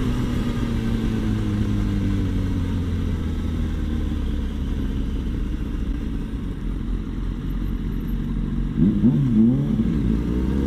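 Sport motorcycle under way, its engine note sliding slowly lower and then holding steady. About nine seconds in, the revs rise and fall quickly a few times.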